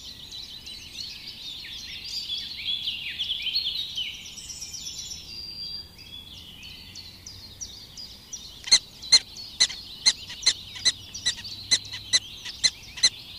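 Small birds chirping and singing in a dense chorus. From about two-thirds of the way in comes a run of loud, sharp chirps repeated about two or three times a second.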